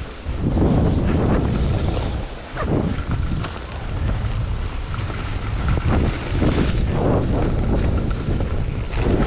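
Wind buffeting an action camera's microphone: a loud low rumble that swells and dips in gusts.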